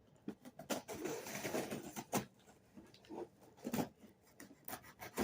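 Cardboard shipping box being opened by hand: its top flaps pulled open, with crackling and rustling and a string of small clicks and knocks.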